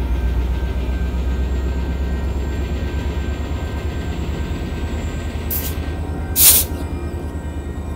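Coaster commuter train's diesel locomotive running as the train moves slowly along the track: a steady low engine rumble with a fast pulsing beat. About five and a half seconds in there is a short burst of air hiss, and a second, louder one a second later.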